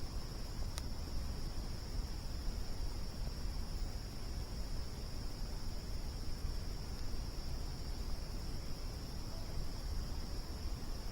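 Crickets chirping in a steady, unbroken high trill over a low rumble, with one sharp pop, typical of a campfire crackle, about a second in.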